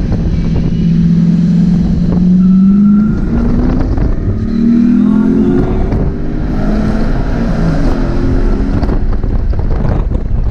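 Car engine revving on a racetrack, its pitch climbing and dropping several times as it accelerates and eases off, over a steady low rumble.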